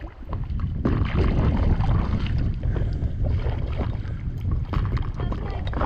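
Wind buffeting the microphone as a heavy low rumble, louder from about a second in, over irregular splashing and lapping of water around a paddleboard.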